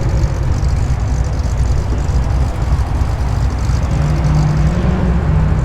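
Muscle car engine rumbling at low revs as it rolls slowly past, its note rising a little about four seconds in.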